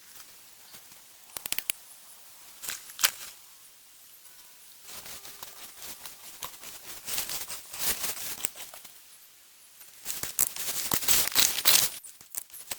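Bursts of dry rustling and crackling with quiet gaps between: brief crackles about one and a half and three seconds in, longer rustling from about five to nine seconds, and the loudest burst from about ten to twelve seconds.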